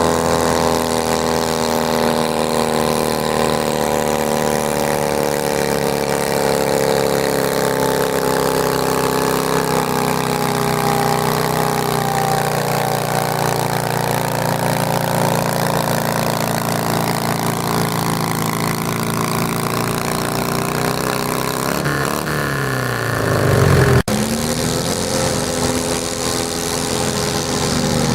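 Garden tractor engine running hard under load while pulling a weight sled, its pitch slowly sagging, then falling steeply as it bogs down near the end. Just after that the sound breaks off abruptly, and engine sound picks up again.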